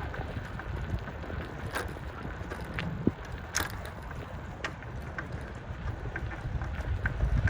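Wind buffeting the microphone as a steady low rumble, with scattered sharp clicks and rattles from a bicycle rolling down a rough trail.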